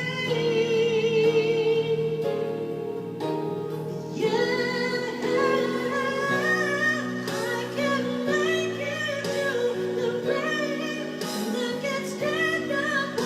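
Female voice singing a ballad over sustained instrumental accompaniment. She holds long notes with vibrato and sings melodic runs.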